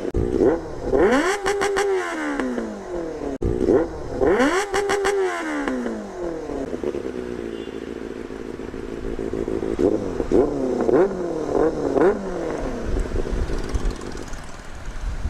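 Benelli 600GT inline-four motorcycle engine revved hard while standing: two long revs early on rising and falling in pitch, a short settle to idle, then a run of quick throttle blips. The owner calls the sound ear-hurting and dangerous.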